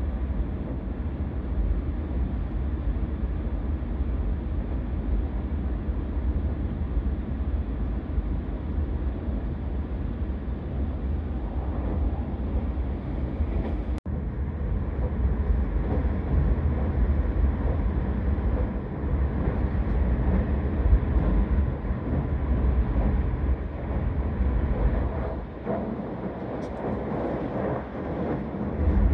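Keisei Main Line limited-express train running at speed, heard from inside the passenger cabin: a steady low rumble of the running train on the track. It cuts out for an instant about halfway through.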